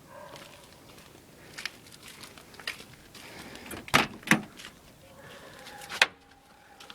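Car door and keys being handled: scattered clicks and knocks, with two loud thumps about four seconds in and another about six seconds in.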